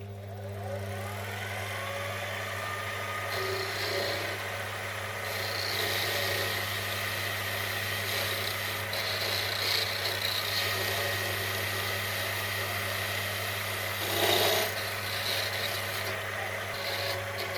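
Lathe motor starting up and coming to speed, then running steadily as the cutting tool turns down a spindle, with a scraping cutting noise over the motor hum. A brief louder scrape comes about fourteen seconds in.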